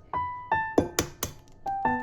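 Background music: a piano playing a run of separate notes, each struck and fading, with a few light clicks among them.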